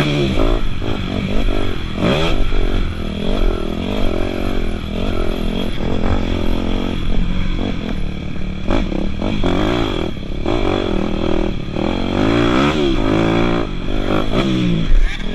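Dirt bike engines revving up and down as they accelerate and shift, several pitches rising and falling over one another.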